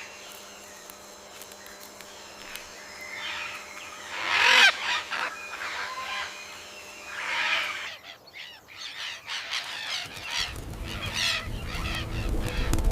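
Bird calls: loud squawks about four and a half seconds in and again about seven and a half seconds in, with more calls near the end. Soft steady background music runs throughout and swells near the end.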